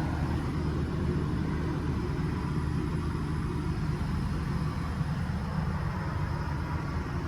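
Steady low mechanical drone with an even hiss above it, from machinery running in the camper van.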